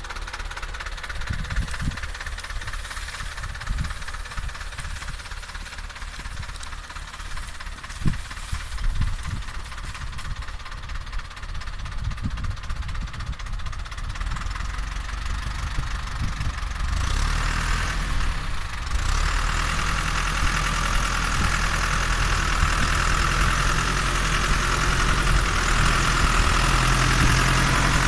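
SAME Explorer 95 tractor's diesel engine running. For the first part it is lower and uneven, with low irregular thumps; about two-thirds of the way through it gets louder and settles into a steady hum that keeps growing louder.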